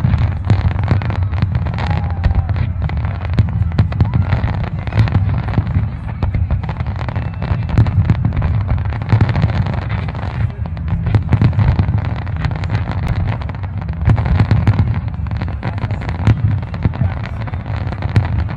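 Fireworks display: aerial shells bursting in a dense, continuous barrage of many overlapping bangs over a steady low rumble.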